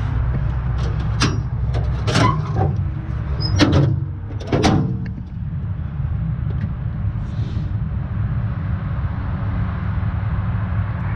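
A motor vehicle's engine running steadily, with four or five sharp clunks in the first five seconds.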